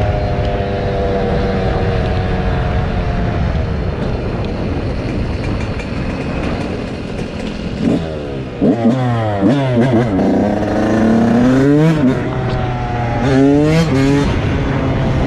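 Dirt bike engines running. About eight seconds in they rev up and down hard, with more than one engine's pitch rising and falling across each other for several seconds.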